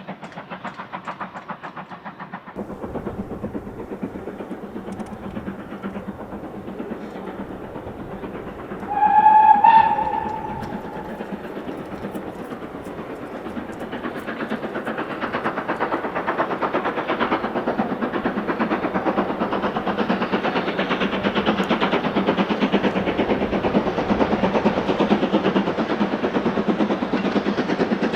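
A train running with a dense, rapid rhythmic beat. About nine seconds in there is a short, loud whistle blast, and from about halfway through the train grows steadily louder as it draws near.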